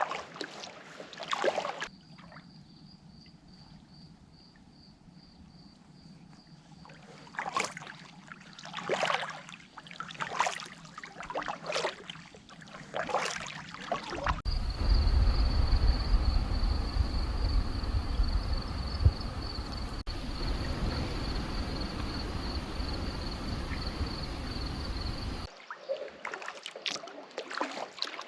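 Kayak paddle strokes in calm water, a splash about every second and a half, with a steady high insect trill in the background. In the middle stretch a heavy low rumble of wind on the microphone covers the strokes.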